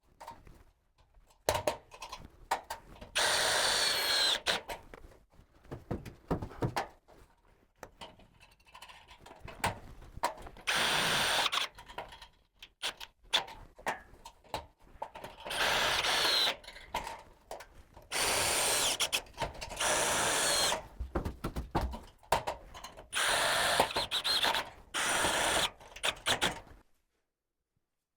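Power drill running in about five bursts of one to two seconds each, its motor whine rising and falling, with scattered knocks and clicks in between.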